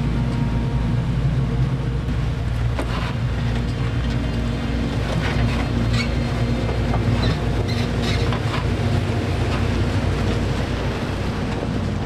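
A vehicle engine running steadily, a constant low rumble, with a few light clicks and rattles over it.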